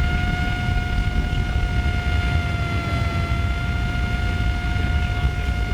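A300 heat recovery ventilation unit's fan running at a steady 50% speed, a high even whine over a low rumble of moving air.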